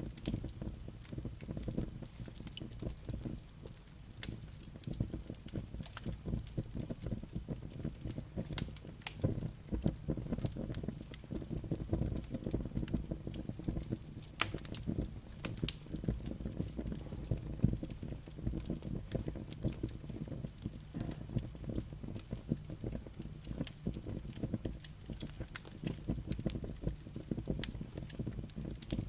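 Wood fire burning in a fireplace: a steady low rumble of flames with frequent sharp, irregular crackles and pops from the burning logs and embers.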